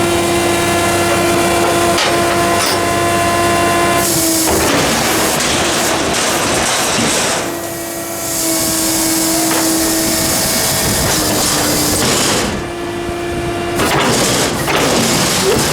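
Hydraulic pump whine from a 1995 Ford L8000 garbage truck with a Loadmaster front-loader body. The steady whine breaks off and changes pitch a few times as the hydraulics work, with a rushing noise and clatter between.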